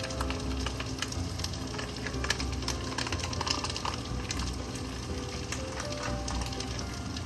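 Food sizzling and crackling in a hot pan, a dense run of small pops, over background music.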